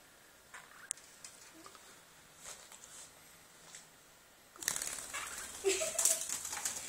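Pet birds moving about: faint taps and rustles, then a louder stretch of scuffling and fluttering in the last two seconds.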